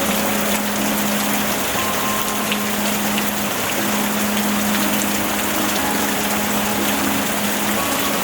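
Steady rain falling in an even hiss, with a steady low hum underneath and a few faint ticks.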